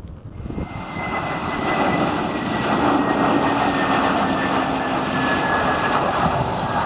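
Jet airliner engines passing close by, the noise swelling over the first two seconds and then holding loud, with a high whine that slides slightly lower.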